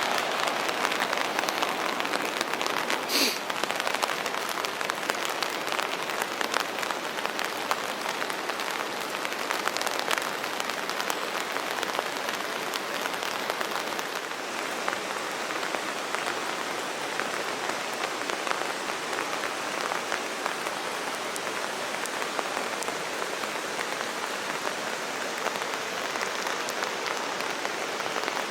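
Steady rain falling, a dense even hiss full of small drop ticks, with one brief louder sound about three seconds in.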